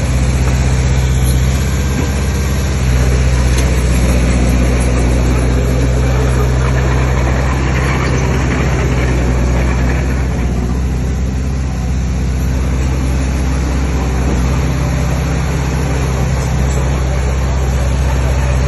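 Heavy earthmoving machine's diesel engine running steadily, a loud low drone whose note shifts slightly about three seconds in.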